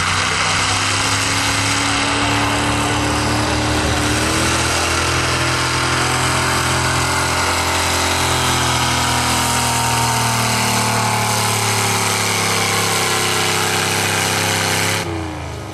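Pulling truck's engine running hard and loud. Its pitch rises a little in the first few seconds, then slowly eases, and it cuts off sharply near the end.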